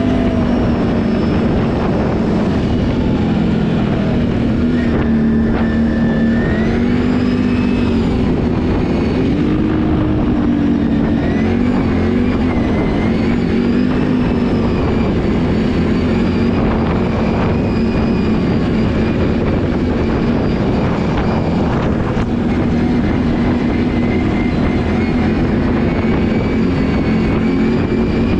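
Can-Am ATV engine running while riding, its pitch rising and falling again and again as the throttle is worked.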